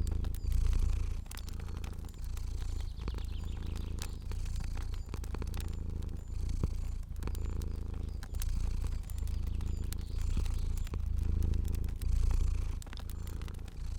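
A cat purring, a low rumble that pulses with each breath in and out, with scattered crackles of a fire over it.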